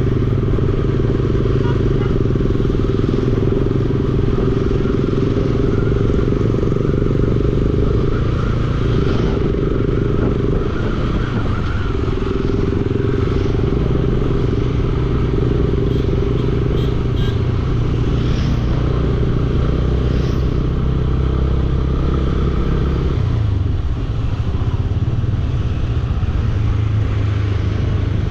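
Bajaj Dominar 400's single-cylinder engine running while the motorcycle is ridden, a steady engine note that changes with the throttle a few times, most clearly about 23 seconds in.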